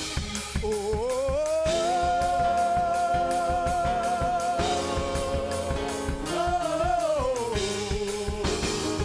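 Live gospel worship music: a singer glides up into a long held note about a second in, then bends up again and slides down near the end, over steady drum beats.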